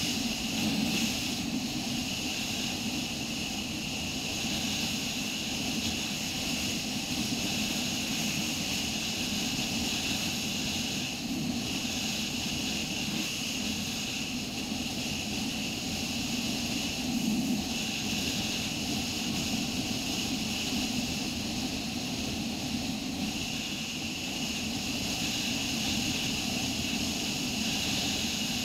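Motorcycle riding at a steady speed: a constant engine drone mixed with wind and road noise, with small swells in level now and then.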